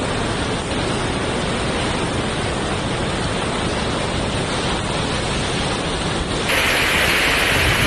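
Floodwater rushing, a steady, dense noise. About six and a half seconds in it switches abruptly to a louder, hissier rush.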